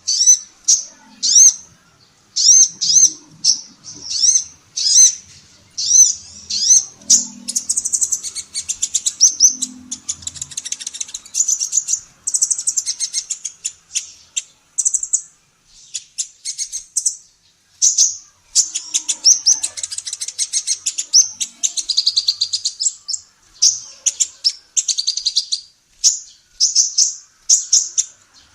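Female kolibri ninja sunbird singing hard: runs of short, high, sweeping chirps repeated about two or three a second, broken by long bursts of rapid, dense twittering trills.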